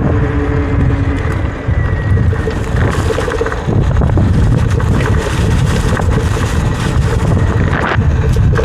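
Wind buffeting the microphone while riding a Talaria electric dirt bike along a trail, a heavy rumble with a faint steady motor whine underneath. A few short knocks and rattles come through, near the middle and again near the end.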